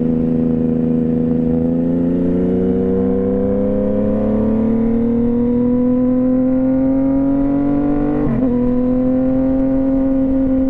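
2015 Yamaha FZ-09's three-cylinder engine accelerating away from a light, revs climbing steadily for about eight seconds, then a quick upshift and a steadier hum as it settles in the next gear.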